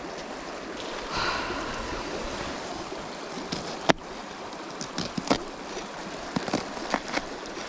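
Steady rush of a nearby stream, with a short hiss about a second in, a sharp click near the middle, and scattered small clicks and knocks of camp cooking gear and ingredients being handled.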